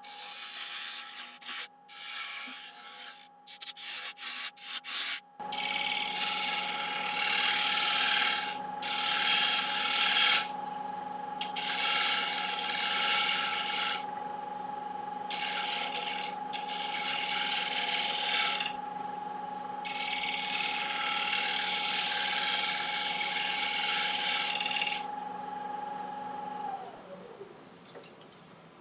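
Wood lathe motor running with a steady hum while a turning tool cuts the rim of a spinning Iroko platter in a series of scraping passes, short and choppy at first, then longer strokes of a few seconds each. Near the end the lathe is switched off and its hum falls in pitch as it spins down.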